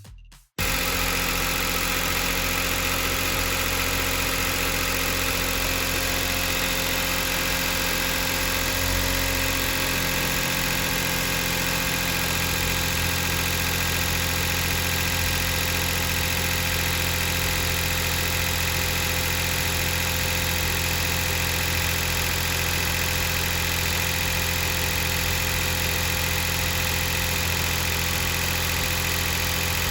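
Daihatsu Atrai Wagon's 660 cc three-cylinder engine idling steadily on its first run of the morning. This is a worn engine past 110,000 km, known for an abnormal noise and now running on 15W-50 motorcycle oil. Its low note shifts slightly about ten seconds in.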